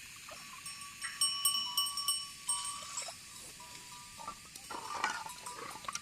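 Small livestock bells on sheep clinking and ringing repeatedly, in short overlapping rings as the animals move.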